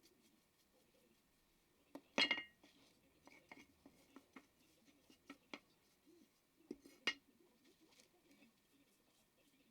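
Small metal parts being handled and set down, clinking and tapping on a hard surface. The loudest clatter comes about two seconds in and another sharp clink about seven seconds in, with lighter taps between.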